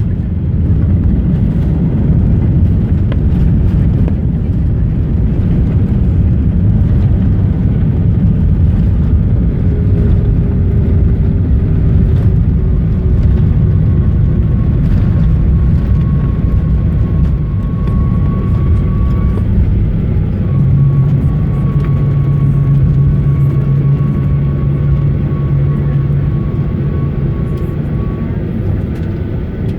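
Cabin noise inside a Boeing 737-800 on the ground after landing: a loud, steady rumble of the CFM56 engines and the rolling aircraft. About ten seconds in, an engine tone slides down in pitch, and a steady low hum comes in about two-thirds of the way through and fades near the end.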